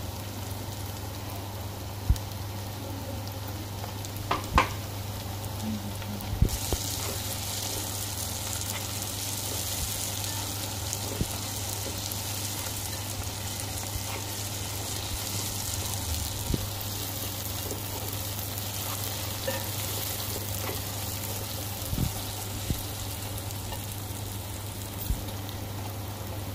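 Sliced onions, curry leaves and green chillies frying in hot oil in a non-stick wok: a steady sizzle that gets brighter about six seconds in. The food is stirred with a plastic spatula, with a few sharp knocks.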